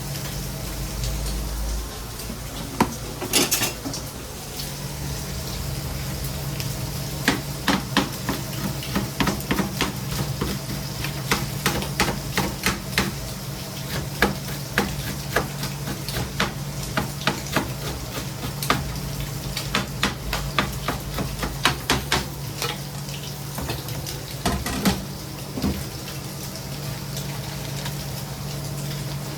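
Food sizzling on a hot cooking surface, with many sharp clicks and knocks of metal utensils and pans through the middle of the stretch, over a steady low hum.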